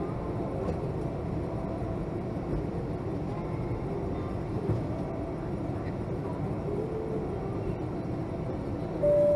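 Steady rumble of cabin noise inside a Boeing 757 airliner. Near the end a clear chime tone sounds, the first note of a two-tone cabin chime.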